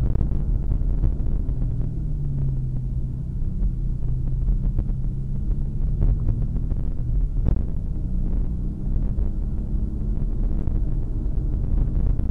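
Porsche 911 (997) Turbo's twin-turbo flat-six engine and road noise heard from inside the cabin as a continuous low rumble. From about two seconds in the engine holds a steadier note, and the rumble builds again near the end.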